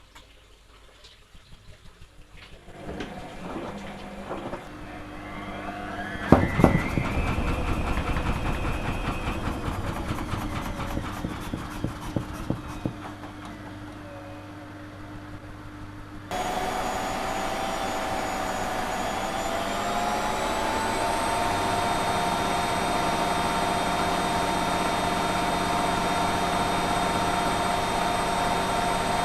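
Washing machine running a wash cycle, its drum freshly fitted with new bearings. Its motor whirs up in pitch, with a sharp knock a few seconds in. About halfway through it jumps to a louder, steady whine that rises slightly in pitch as the drum speeds up.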